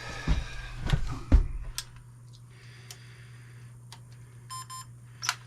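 A trail camera being handled: knocks and clicks, then a short quick run of electronic beeps from the camera about three-quarters of the way in as it powers up and starts working again. A steady low hum runs underneath.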